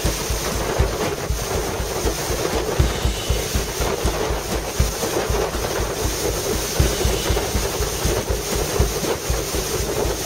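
Motorboat running at speed over water: a steady engine drone under rushing water, with wind buffeting the microphone in irregular low thumps.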